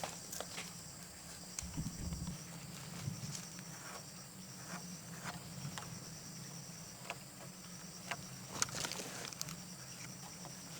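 Insects chirping steadily in a high-pitched, pulsing chorus, with scattered light clicks and taps over a low steady hum.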